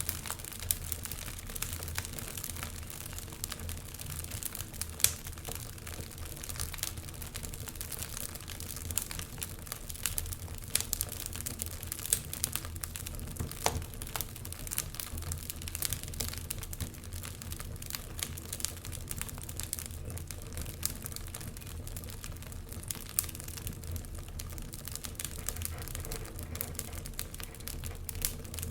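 Wood fire crackling in a fireplace: a steady low rumble of the flames with frequent irregular sharp pops and snaps, a few of them louder than the rest.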